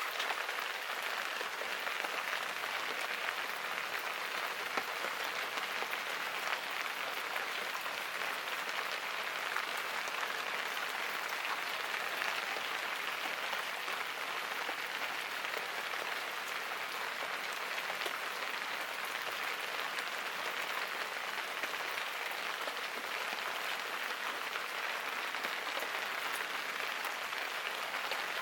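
Steady rain falling, a dense, even hiss of many fine drops that holds at one level throughout.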